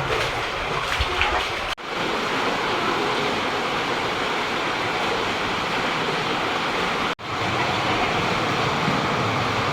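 Steady rush of flowing water, broken twice by short sudden gaps about two and seven seconds in.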